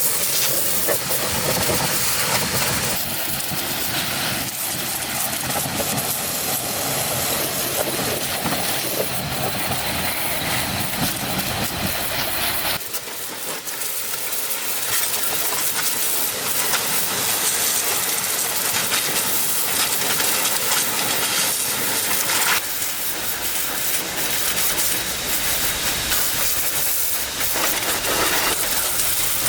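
Steady loud machine noise with a strong hiss. The deepest part of the sound drops away about halfway through and comes back later.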